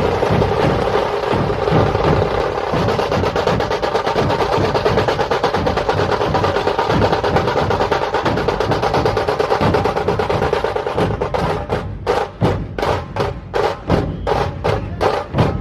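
Percussion-heavy music: fast, dense drumming that breaks, for the last few seconds, into separate sharp drum strokes at about two to three a second.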